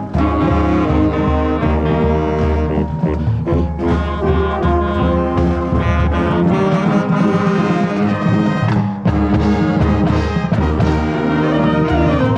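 Marching band playing a full-ensemble passage, with the brass carrying it loudly over a pulsing low beat.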